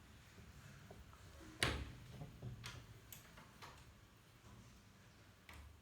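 Quiet room tone with a few short, faint clicks, the clearest about a second and a half in.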